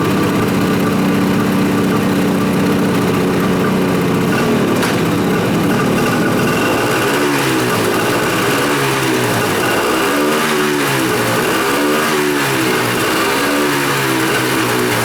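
Suzuki GT550's air-cooled two-stroke inline-three engine running steadily, then from about seven seconds in revved up and let back down about five times in a row. The engine runs and revs up freely.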